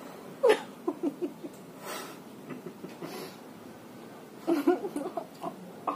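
A person's breathy voice in two short runs of quick sounds, one about half a second in and another about four and a half seconds in.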